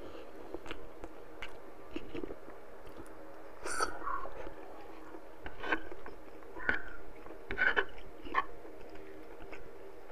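Close-up mouth sounds of chewing soft braised pork and rice, with scattered wet lip smacks and clicks; the sharpest come about three and a half and seven and a half seconds in.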